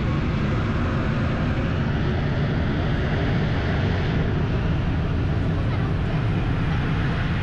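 Steady, loud rumble of a passing airplane's engines, the higher part of the sound fading from about four seconds in.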